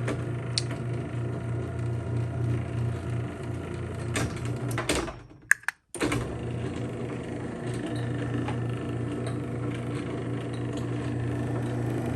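Liftmaster garage door opener motor running with a steady hum as it drives the door. About five seconds in it stops briefly with a couple of sharp clicks, then starts again and runs on as the door closes.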